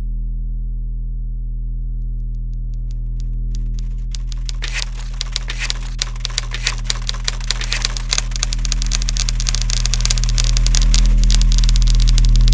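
Manual typewriter keys clattering over a steady low drone. The typing is sparse at first, then from about four seconds in it builds into a dense, fast clatter that grows louder toward the end.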